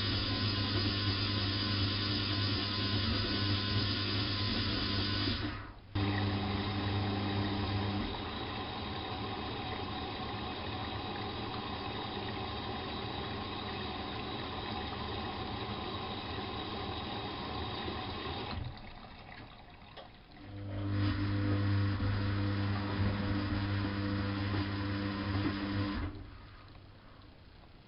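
Bosch WFK 2431 washing machine moving water: a steady electric hum with water rushing through it. About eight seconds in the hum drops away, leaving the rushing water; after a short break the hum comes back and cuts off suddenly near the end.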